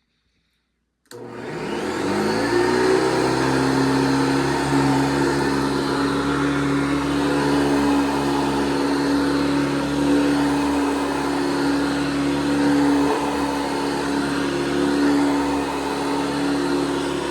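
1982 Hoover Guardsman upright vacuum cleaner switched on about a second in: the motor spins up with a rising whine, then runs steadily.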